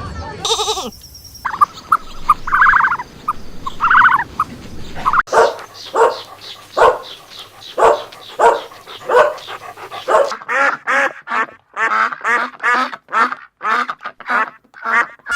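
Ducks quacking in a run of short, repeated quacks that come faster in the last five seconds.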